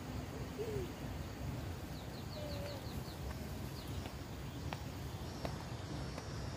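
A bird calling a quick run of about six short high notes about two seconds in, over a steady low rumble. A few light sharp clicks come in the second half.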